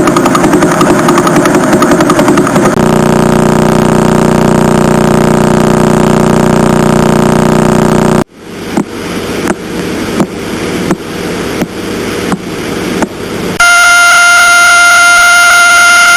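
Radio signals from several pulsars played as sound, one after another. First a rapid buzz, then a steady hum from the fastest-spinning kind. About 8 seconds in it cuts suddenly to sharp clicks about one and a half a second, one click per turn of a slower pulsar. Near the end comes a steady high-pitched tone.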